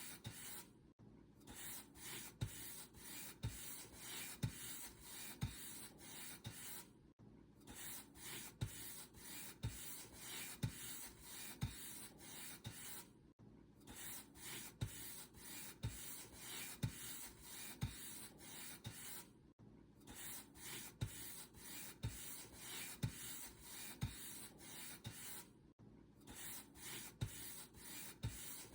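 Paint brush bristles brushed back and forth in steady strokes, about two a second, with a short pause roughly every six seconds.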